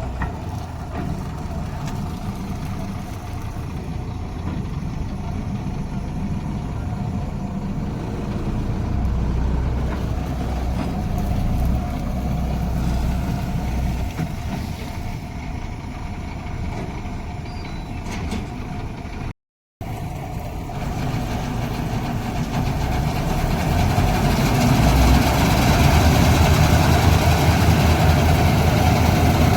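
Heavy farm machinery's diesel engine running steadily. It cuts out for a moment about two-thirds of the way through, then comes back louder, with more high-pitched noise over the engine.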